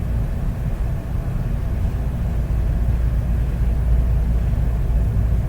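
A steady low rumble with no clear pitch and nothing sounding above it.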